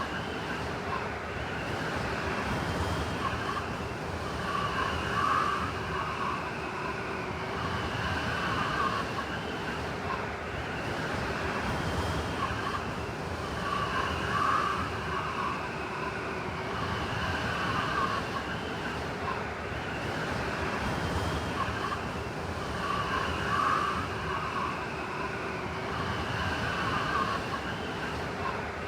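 Blizzard wind howling over a steady rush of noise, with whistling tones that waver in pitch. Stronger gusts swell about every nine seconds.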